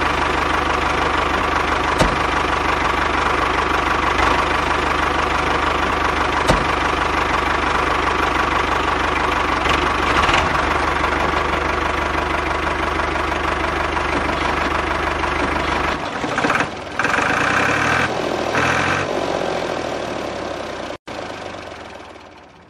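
Tractor engine idling steadily with a knocking beat. Its deep low hum drops out about two-thirds of the way through, and the sound then thins and fades away.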